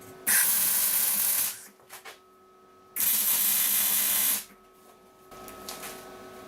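Two bursts of spray hissing, each about a second long, starting and stopping sharply.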